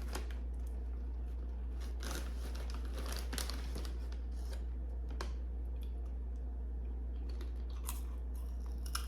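Snack-bag crinkling and sweet popcorn being chewed: scattered crackles and crunches, over a steady low hum.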